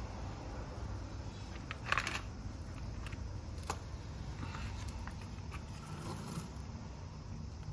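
Scattered small rustles and clicks of plants, soil and pots being handled during repotting, with a louder rustling scrape about two seconds in and a sharp click just before four seconds, over a steady low rumble.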